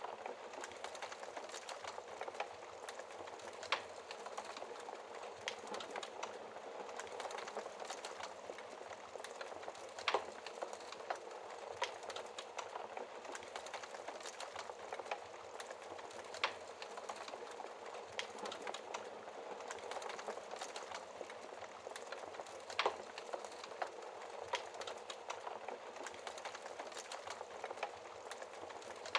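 Wood fire crackling in a fireplace: a steady dense crackle with four louder, sharper pops spaced about six seconds apart.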